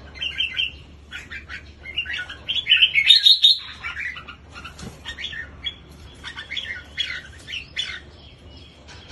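Red-whiskered bulbul singing: a busy run of short, quick chirping phrases, loudest about three seconds in.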